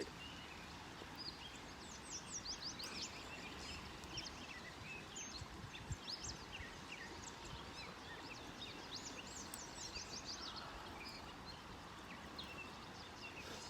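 Several wild birds singing, with many quick chirps and whistles in clusters, over the steady rush of a creek.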